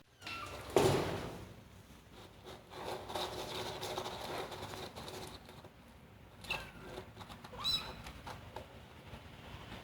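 Kitten digging and scratching in granular cat litter: a sharp knock about a second in, then a few seconds of grainy scratching. Near the end come two short, high, squeaky calls.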